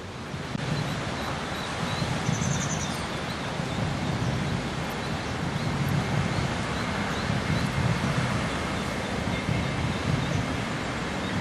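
Wind buffeting the microphone over a steady rushing outdoor noise, with faint bird chirps, one a little over two seconds in.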